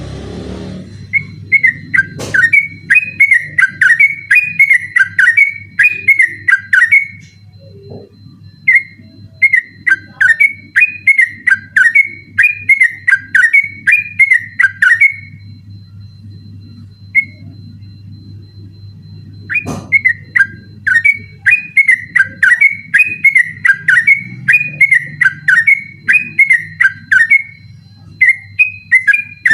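Yellow-vented bulbul (trucukan) singing its rapid 'ropel' song: long runs of loud, fluty warbling notes, about two a second, in three bursts with short pauses between them. A faint low hum runs underneath.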